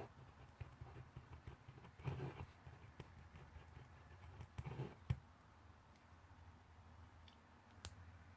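Faint handwriting at a desk, pencil or pen on paper: scattered light taps and clicks, with two short scratchy stretches about two and five seconds in, the sharpest click just after the second.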